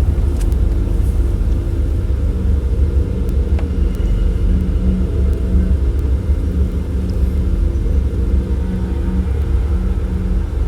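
Car driving on a road: a steady low rumble of tyres and engine, with a faint even hum over it.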